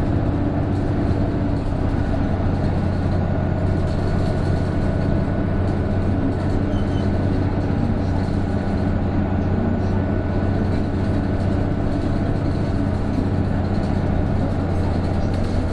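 Isuzu Erga (PJ-KV234L1) bus's turbo diesel engine running steadily under way, heard from inside the cabin, with a steady thin whine on top. This is the abnormal whine, like that of an Aisin automatic gearbox, that this bus makes once the turbo comes in from about 1300 rpm.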